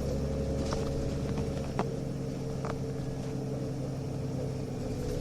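Nissan Diesel UA (KL-UA272KAM) bus diesel engine heard from inside the cabin, running steadily with scattered body rattles and clicks; the low rumble changes about two seconds in as the bus heads to its stop. The recordist counts this unit as an off-sound example of the UA272.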